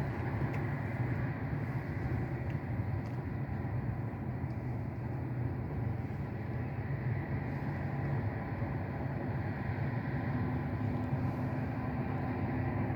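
Steady low engine rumble with faint steady whining tones above it; a low hum joins about ten seconds in.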